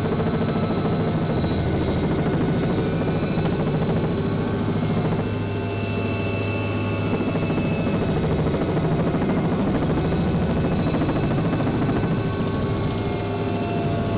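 Helicopter in flight: a steady, fast rotor beat with thin, high, even whining tones over it.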